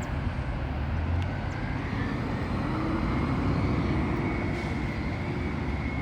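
CSX intermodal freight cars rolling past: a steady rumble of wheels on rail, with a faint high whine from about two seconds in.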